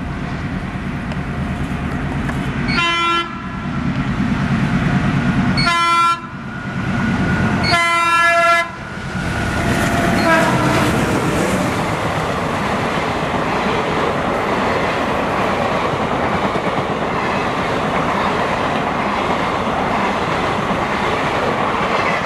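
WDM-series ALCo diesel locomotive approaching at speed with its engine running, sounding its multi-tone horn three times: short blasts about three and six seconds in, and a longer one near eight seconds. Its passenger coaches then rush past with a steady rolling noise and wheels clattering over the rail joints.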